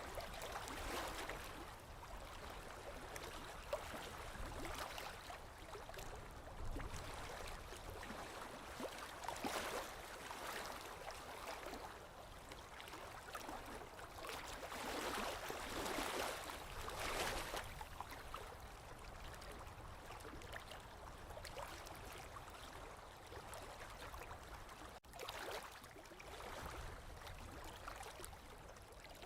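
Small lake waves lapping on the shore, a steady wash of water with gentle swells every few seconds.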